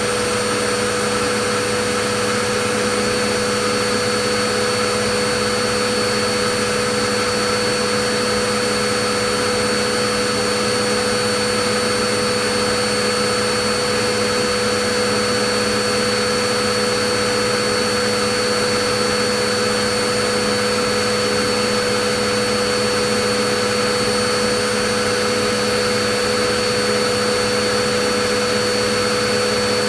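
Vacuum cleaner running steadily: a constant motor hum and airflow rush with a steady whine, unchanging throughout.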